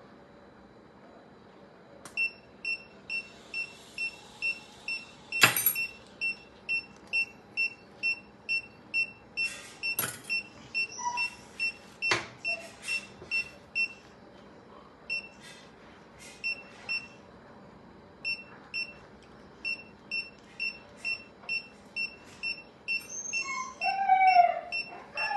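Anaesthesia monitor beeping about two and a half times a second, the steady pace of a pulse tone following the cat's heartbeat, with two short gaps. A few sharp clicks come through it, the loudest about five seconds in, and a brief wavering vocal sound comes near the end.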